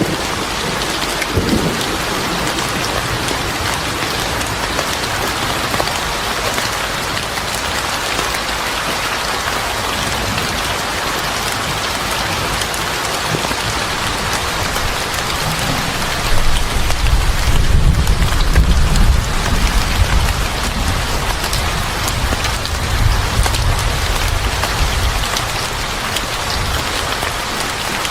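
Steady heavy rain falling on hard surfaces, with a low roll of thunder rumbling for several seconds past the middle.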